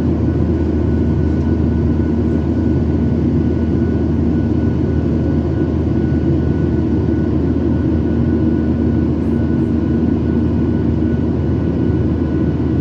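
Steady cabin noise inside an airliner in flight: a constant rush of engine and air noise with a low hum and a faint steady whine above it.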